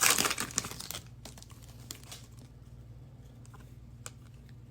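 Foil wrapper of an Optic football card pack crinkling as it is torn open and crumpled, loud for about the first second. After that only a steady low hum with a few faint clicks.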